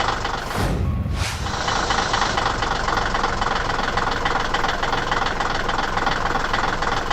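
A motor vehicle engine running steadily, with a brief drop and a low rumble about a second in.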